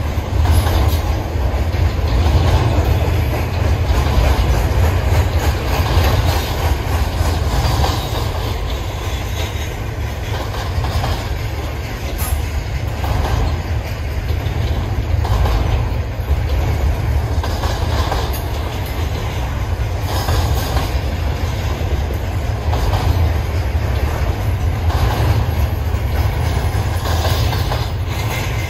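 Double-stack container freight train rolling past at a steady speed: a continuous deep rumble with the wheels clicking over rail joints every second or two.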